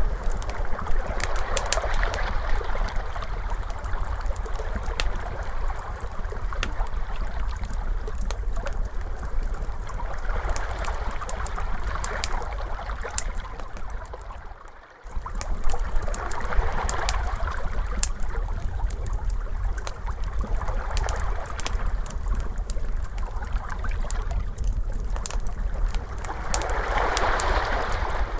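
Ocean waves washing in slow swells, with a fire crackling in sharp pops over them. About halfway through the sound fades down briefly and comes straight back.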